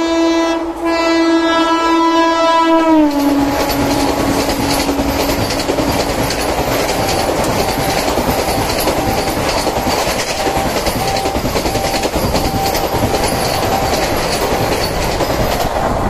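Vande Bharat Express electric train set sounding its horn in one long blast as it runs in at speed. The horn drops in pitch about three seconds in as the front end passes. Then come the loud rush and rapid wheel clatter of the coaches speeding through.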